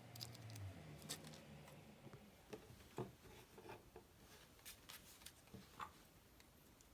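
Near silence with scattered faint clicks and light taps of small objects being handled, and a faint low hum that fades out in the first two seconds.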